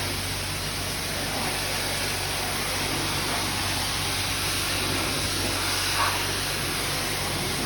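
High-pressure spray wand at a coin-operated self-service car wash spraying water in a steady hiss, with a low hum underneath.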